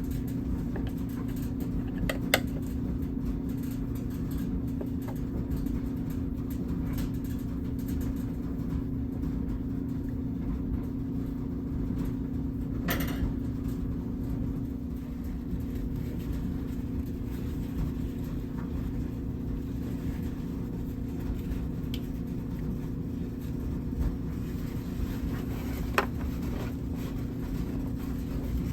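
A steady low hum runs throughout, with a few isolated sharp clicks and knocks.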